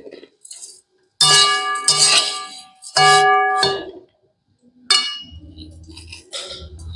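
Metal cookware clanging three times, each strike ringing on briefly like a bell, followed by a low steady hum.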